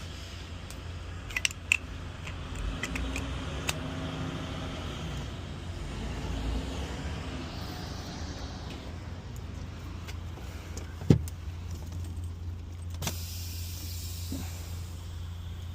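Truck engine idling steadily, with a few sharp metallic clicks and rattles over it.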